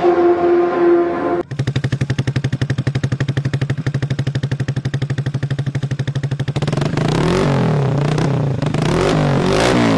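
A brief held tone cuts off about a second and a half in. Then an automatic Vespa scooter's engine runs through a Rob1 stainless-steel racing exhaust: an even, pulsing idle, then repeated rev blips rising and falling in pitch from about seven seconds in.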